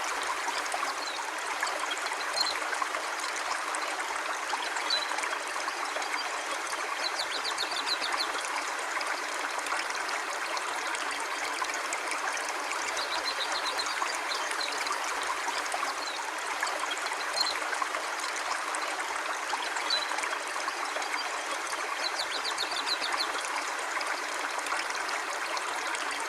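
Steady flow of a river, an even rushing of water. Short faint high chirps come every few seconds.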